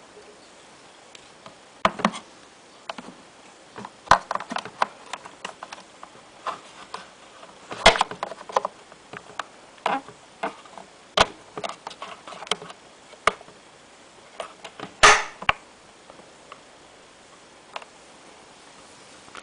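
Irregular clicks and knocks of parts of a ceiling bathroom exhaust fan being handled and fitted, with the loudest knocks about two, eight and fifteen seconds in; no fan motor running.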